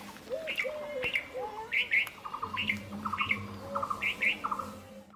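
Several birds calling over and over, short chirps repeating about once a second, with a faint steady hum underneath.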